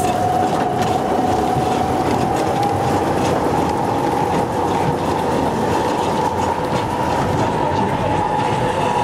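Snowdon Mountain Railway rack-and-pinion train running steadily, the carriage rumbling and rattling, with a steady high whine that slowly rises in pitch.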